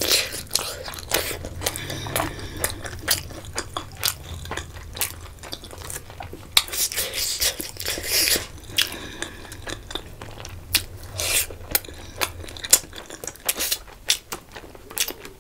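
Close-miked eating: a crisp panipuri shell crunched between the teeth and chewed, with many sharp crunches and wet mouth sounds throughout.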